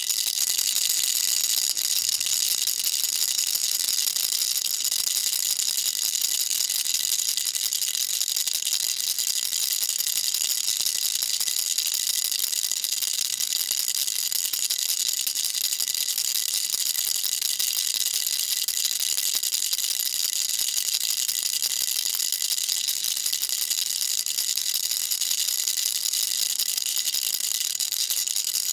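Baby rattle shaken rapidly and without pause: a dense, even, high-pitched rattling at constant loudness.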